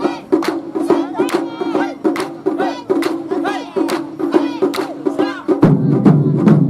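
Japanese festival music with a steady beat of sharp percussive clicks, about two or three a second, under a wavering melodic line. A deeper, louder drum part comes in about five and a half seconds in.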